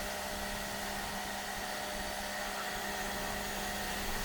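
Small 1300 W, 240 V Makita electric pressure washer running steadily, its motor hum under the hiss of the water spray.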